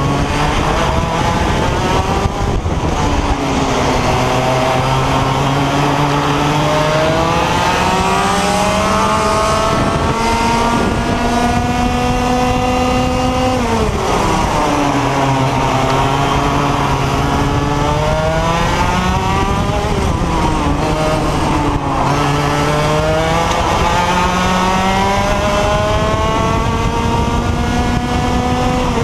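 125cc IAME X30 two-stroke kart engine under hard acceleration. Its pitch climbs steadily in three long rises, each broken by a sharp drop as the throttle is lifted for a corner.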